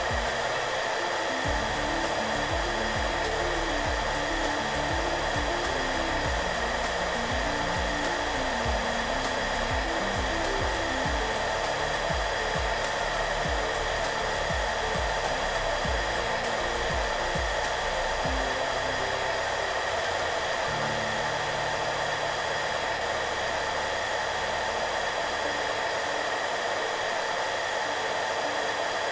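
Hair dryer running steadily: an even, constant rush of blowing air with a steady motor whine. Soft background music with low notes plays underneath and grows sparser about two-thirds of the way through.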